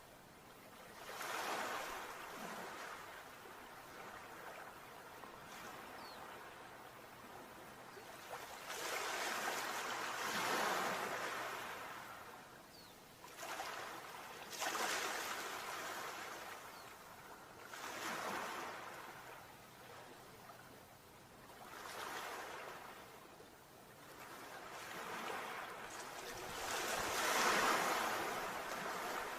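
Sea waves breaking and washing in, heard as about six swells of surf noise a few seconds apart, the loudest near the end.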